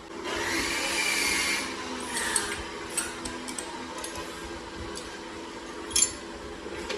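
Workshop tool noise: a loud rasping scrape lasting about a second and a half, then a few scattered sharp clicks and knocks, the loudest about six seconds in.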